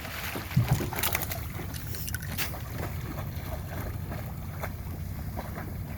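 Steady low rumble of wind on the microphone, with scattered faint knocks and clicks, a few a little louder about half a second in.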